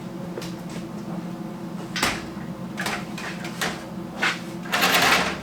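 A few knocks, the sharpest about two seconds in, then a short scrape near the end, from lumber and tools being handled during construction of a wooden frame. A steady low hum runs underneath.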